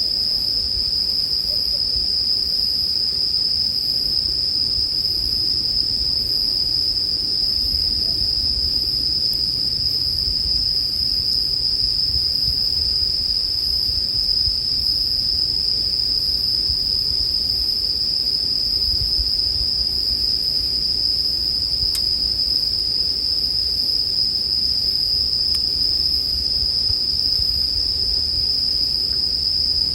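Chorus of Japanese bell crickets (suzumushi) singing: a continuous high-pitched ringing that holds steady throughout, with a faint low rumble underneath.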